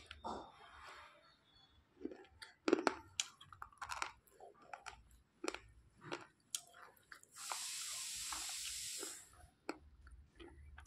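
Wetted, softened red slate pencils being crunched and chewed: a run of separate sharp crunches, with a steady hiss lasting about two seconds about two-thirds of the way through.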